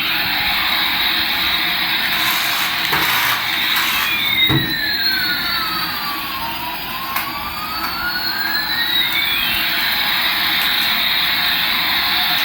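Toy airliner's electronic jet-engine sound effect: a steady, loud jet roar with whistling tones that sweep down and back up.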